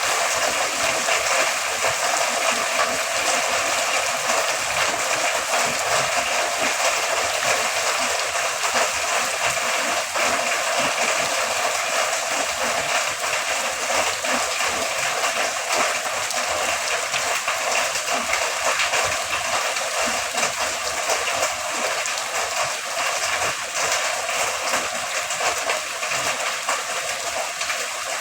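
Heavy rain falling in a steady downpour: a dense, even hiss of drops, mostly high in pitch with little low rumble.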